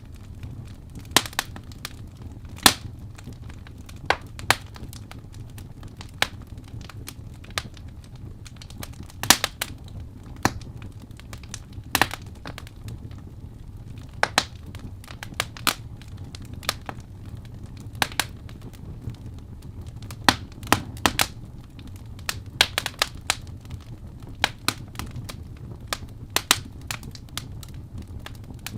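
Wood fire crackling in a fireplace: irregular sharp pops and snaps, a few loud ones standing out, over a low steady rumble.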